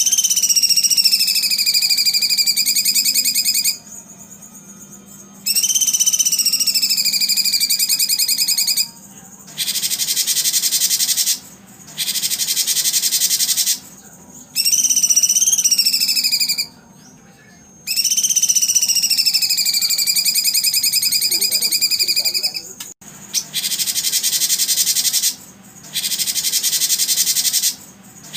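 Long, high whistled bird calls, each sliding down in pitch and then held for two to four seconds, alternating with stretches of loud, even, high buzzing hiss, in a repeating pattern.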